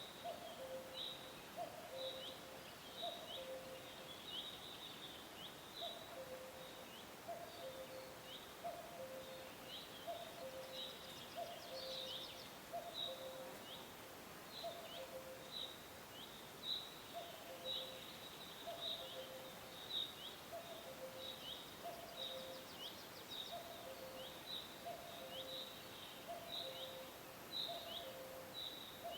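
Forest birdsong: a bird repeating short high downward chirps about twice a second, with a lower two-note call repeating about once a second underneath.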